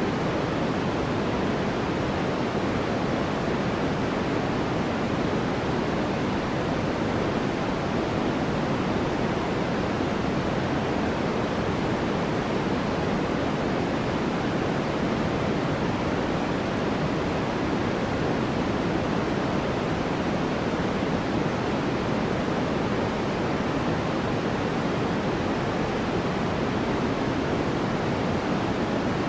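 Continuous white noise for sleep: an even, unchanging hiss, fuller in the lower tones than in the highs.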